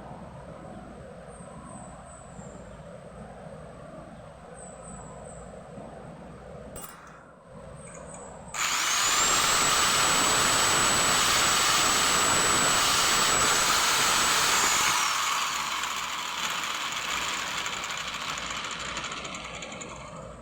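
A small high-speed power tool motor starts about eight seconds in, spinning up to a high steady whine. It runs loud for about six seconds, then is switched off and winds down, the whine falling and the noise fading over the next few seconds.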